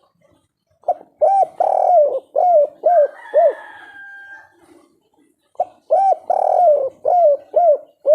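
Spotted dove (tekukur) cooing its three-note-ending 'kuk 3' song: two phrases of about six short rising-and-falling coos each, the first about a second in and the second near the end.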